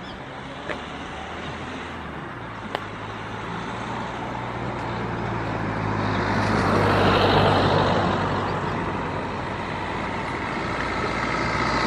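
Road traffic: the steady hum of motor vehicles, swelling as a vehicle passes about halfway through and again near the end. Two short clicks come in the first few seconds.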